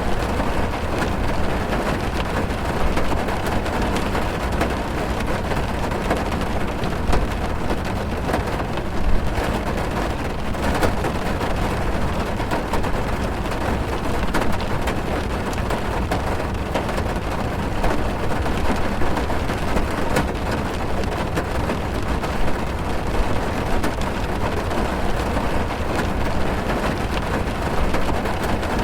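Heavy rain drumming on a car's roof and windows, heard from inside the car: a steady dense patter with a deep rumble beneath it.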